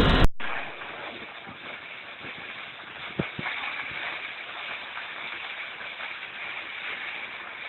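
Loud rushing noise cuts off abruptly just after the start. It gives way to steady, quieter road and engine noise of a moving car through a dashcam's microphone, with a single sharp knock about three seconds in.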